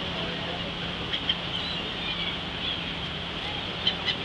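Seagulls giving a few short, faint calls over the steady hum of a boat's engine.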